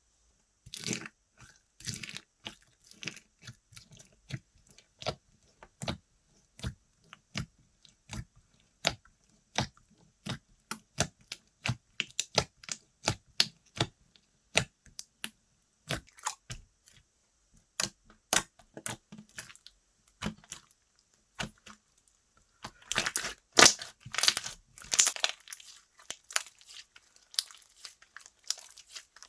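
Slime being pressed, poked and stretched by hand, making a rapid, irregular series of sticky clicks and little air-pocket pops. Near the end there are a few seconds of denser crackling.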